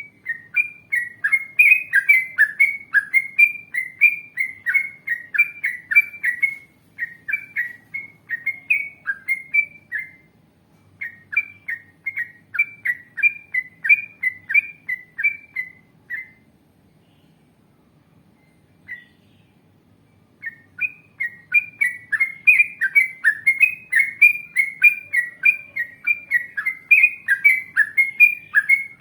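Yellow-vented bulbul (trucukan) singing a long rapid run of short, bright chirping notes, about three a second, in extended phrases broken by short pauses, with a longer pause a little past halfway before the run resumes.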